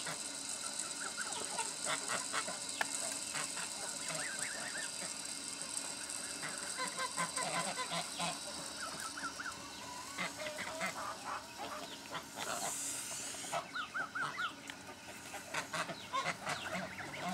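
Domestic poultry calling at feeding time: many short calls, some in quick runs, over a steady high hiss that fades about halfway through.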